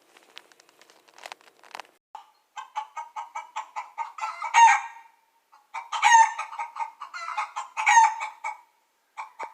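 A few faint clicks, then a chicken clucking rapidly, about five clucks a second, broken by louder, drawn-out calls about every one and a half to two seconds.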